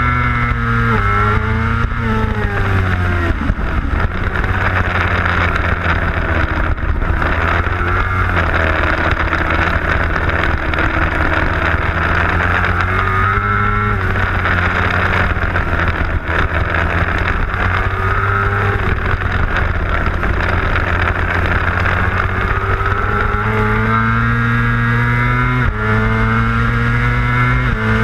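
600cc racing motorcycle engine heard onboard at full race pace, with wind rush. The engine note drops in steps over the first few seconds, runs lower through the middle, and climbs again near the end with a gear change.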